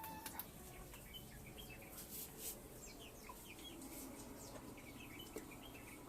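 Chickens calling quietly: soft clucks and a string of short, high chirps.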